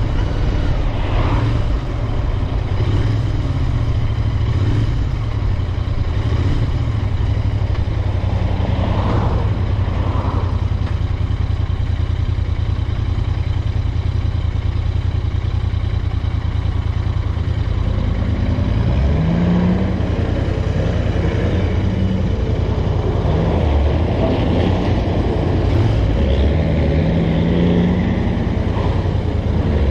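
Royal Enfield Interceptor 650's 648 cc parallel-twin engine running steadily on the move, with road and wind noise; its pitch rises a few times in the second half as it revs up.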